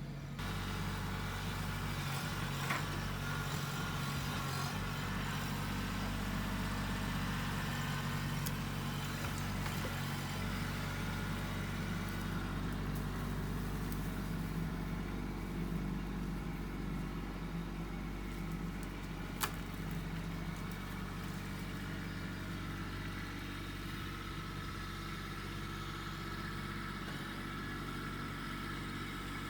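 Tractor engine running steadily, with a sharp click about two-thirds of the way through.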